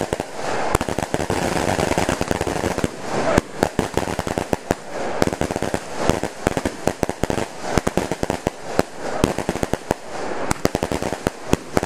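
Fireworks going off at close range: a dense, uneven string of sharp bangs and crackles over a steady hiss.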